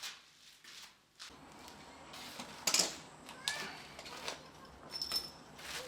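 A series of irregular light knocks and clicks, with a short high tone a little after five seconds in.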